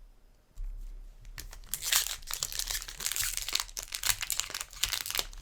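Crinkling of a Magic: The Gathering booster pack's plastic wrapper being handled and torn open, a dense crackle that starts about a second and a half in and grows busier.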